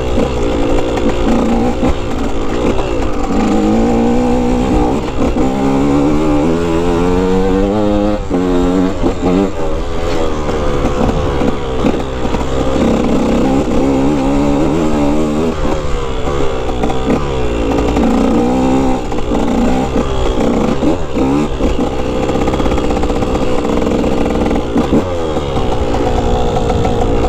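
125 cc two-stroke dirt bike engine being ridden, revving up and dropping back again and again as the throttle is worked and gears are changed.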